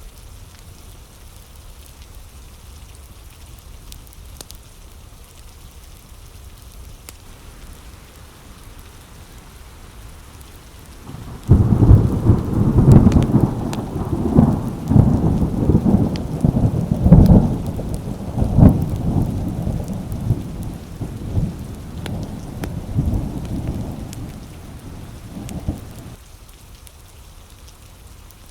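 Steady rain on window glass; about eleven seconds in, a thunderclap breaks suddenly into a long rolling rumble that swells several times and dies away after about fifteen seconds, leaving the rain.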